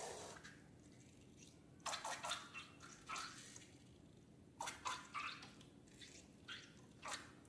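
Slime being squished and kneaded by hand, giving short wet squelching and crackling sounds in several irregular clusters.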